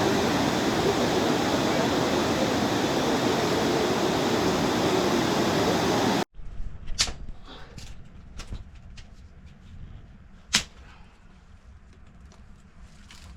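Loud, steady rush of water for about six seconds, cut off abruptly; then a quieter background with a few scattered sharp clicks and knocks, the loudest about ten seconds in.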